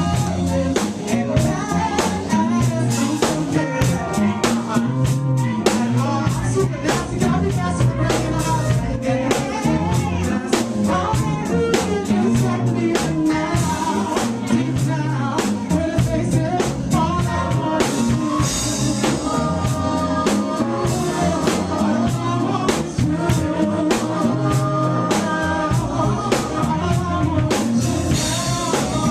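Live funk/soul band music with a steady drum-kit beat and bass, and a singer's voice over it.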